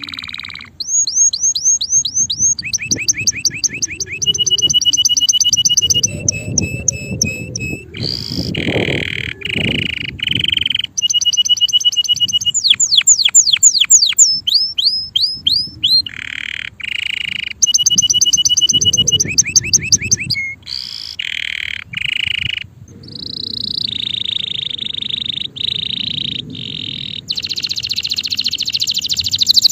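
Male canary singing a long, loud song in tours: each phrase is a fast run of identical chirps, sweeps or trills that switches to a new run every second or two, with only brief breaks.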